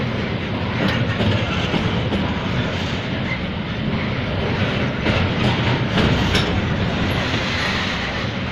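Freight wagons rolling past at close range: steel wheels on rail in a steady rumble, with a few sharp clicks.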